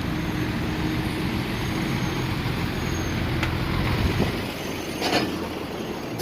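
Heavy truck's diesel engine running steadily, with a short burst of hiss about five seconds in.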